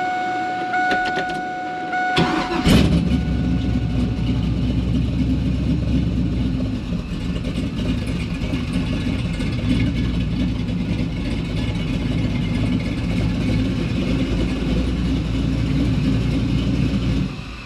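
Pontiac Trans Am engine cranking and catching about two seconds in, then running steadily with a deep exhaust note for about fifteen seconds before it shuts off suddenly near the end. A steady electronic warning tone sounds before the engine starts.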